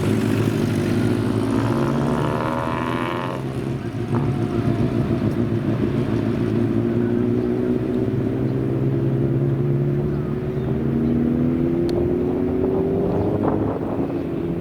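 Old motorcycle engines running, their notes overlapping. A higher engine note joins briefly about two to three seconds in, and the revs climb steadily over the last few seconds.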